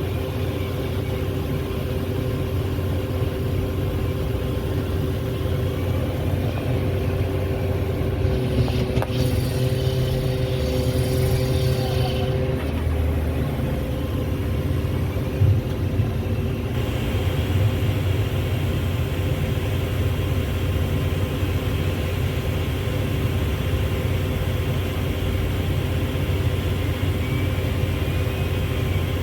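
Heavy diesel engine running steadily, with a single knock about fifteen seconds in.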